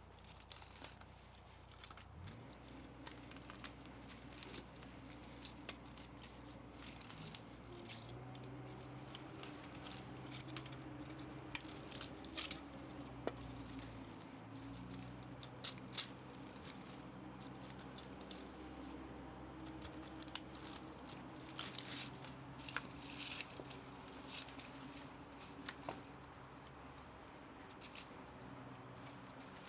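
Irregular small clicks, snips and scrapes of hand tools working on the metal parts of a scrapped electric pump motor. Under them runs a low drone that sets in about two seconds in and changes pitch a few times.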